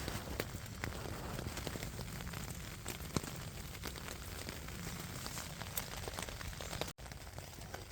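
Steady rain with scattered individual drops pattering and ticking on a surface close by.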